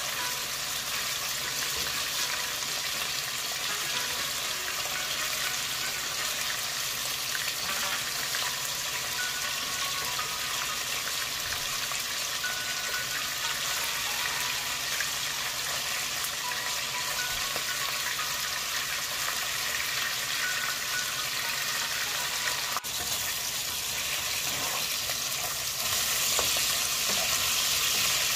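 Food frying in hot oil in a pan, a steady sizzle and crackle that grows a little louder near the end.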